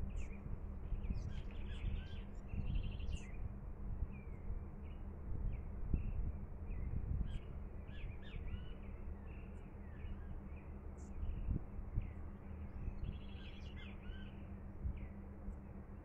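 Small birds chirping and calling in short rising and falling notes, with a brief buzzy rattle twice, over a steady low rumble of outdoor noise.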